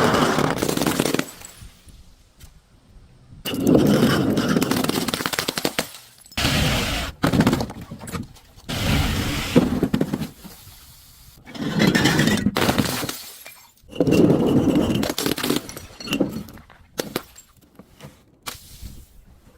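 Glass bottles shattering and crunching in a series of separate bursts, each lasting a second or two, with short pauses between them.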